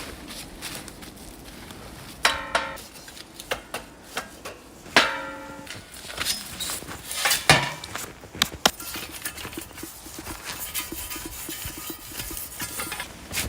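Metal cookware being handled: two clanks that ring on briefly, about two and five seconds in, among smaller clicks and knocks.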